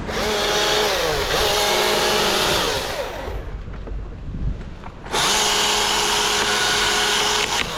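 Battery-powered chainsaw running in two bursts of about three seconds and two and a half seconds, with a short pause between. The motor pitch sags briefly during the first burst as the chain bites into the wood.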